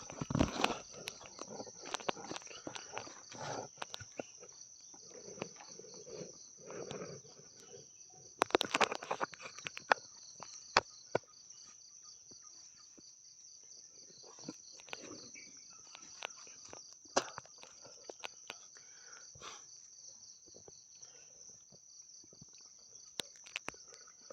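Night-time forest insect chorus: a steady high-pitched shrill with a pulsing trill just below it. Scattered sharp clicks and rustles come and go beneath it, busiest in the first few seconds and again around nine seconds in.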